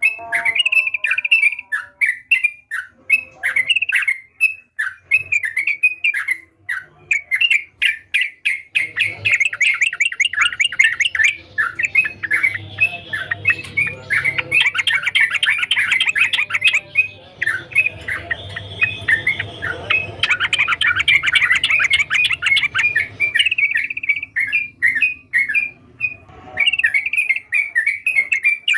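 Trucukan (yellow-vented bulbul) singing: a long run of quick, repeated chirps and chattering notes, growing denser and more continuous in the middle before breaking back into separate phrases near the end.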